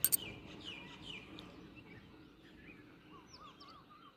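Birds chirping, with quick falling chirps in the first second or two and a bird repeating a short up-and-down note over and over near the end. Two sharp clicks right at the start are the loudest sounds.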